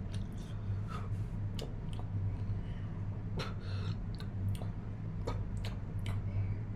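Eating sounds at close range: scattered small clicks and mouth smacks, irregularly spaced, over a steady low hum.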